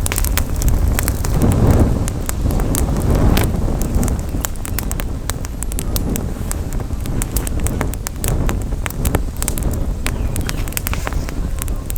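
Campfire burning with frequent, irregular sharp crackles and pops, over a steady low rumble of wind on the microphone.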